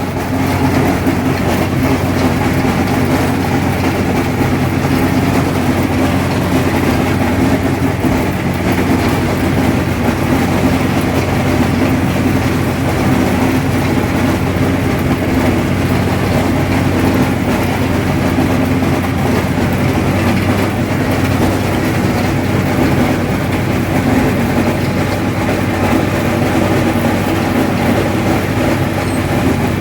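Allis-Chalmers 7000 tractor's diesel engine running steadily under load while pulling a haybine mower-conditioner, a very loud, unchanging drone with the mower's mechanical clatter mixed in.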